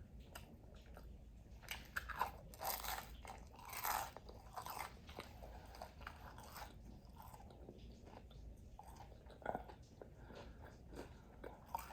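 A person biting into and chewing crispy fried food, with a run of crunches in the first few seconds, then softer chewing and mouth clicks.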